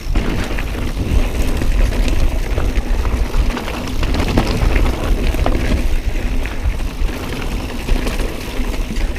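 Mountain bike rolling over a rough, rocky trail: the tyres rumble steadily and the bike gives off a stream of rattles and knocks.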